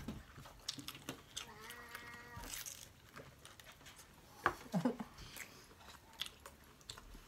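Chewing and biting on chicken nuggets: soft wet mouth sounds with scattered small clicks. A short hum is heard about two seconds in.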